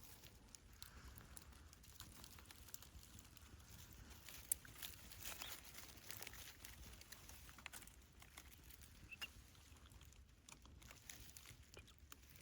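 Near silence: faint scattered light ticks and rustles, with one sharper click about four and a half seconds in.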